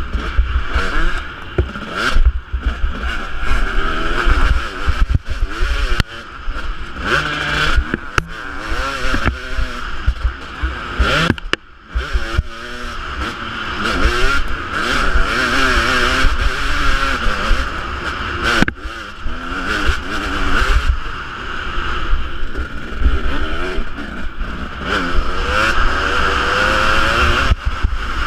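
Husqvarna 250 two-stroke motocross engine revving up and down over and over as the bike is ridden, with heavy wind buffeting on the microphone.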